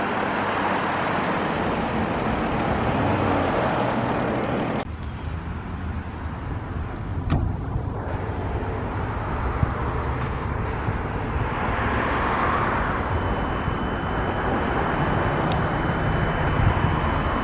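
Fire apparatus engine running with road noise, steady throughout apart from a sudden change in the sound about five seconds in.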